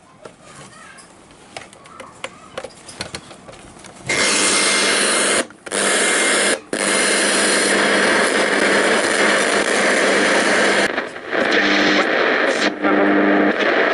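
Faint clicks, then about four seconds in a Sony cassette radio comes on loud with a steady hiss and hum. It cuts out briefly a few times. Its volume control has no effect, so the set plays at full volume.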